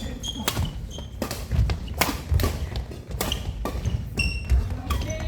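Badminton rally: a quick string of sharp racket hits on the shuttlecock, roughly two a second, with low footfall thumps and short high squeaks of court shoes on the floor.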